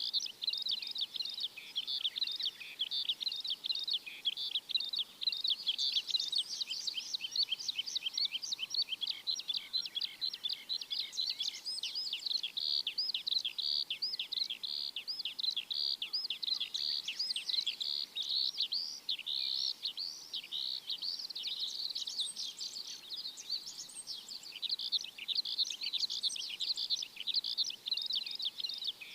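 Small birds chirping continuously: a dense chorus of rapid, high, short chirps with no break.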